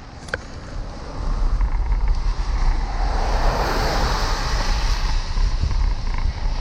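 Wind buffeting the microphone as a bicycle rides on a wet road, a loud low rumble that sets in about a second in. A hiss swells and fades in the middle, like a vehicle passing on the wet road. A single sharp click comes just after the start.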